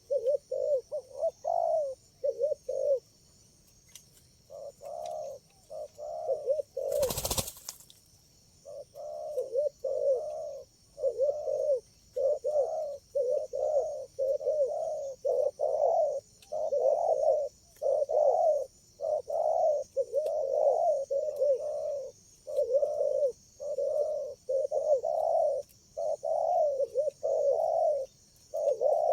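Spotted doves (tekukur) cooing, one short coo after another in a near-continuous run with a pause about three seconds in. There is a single brief burst of noise about seven seconds in.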